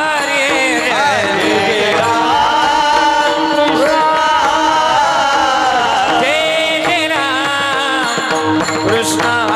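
Male kirtan singer drawing out a long, ornamented melodic passage of a Marathi Varkari abhang, his voice bending and sweeping in pitch over a steady held drone, with mridang drum accompaniment.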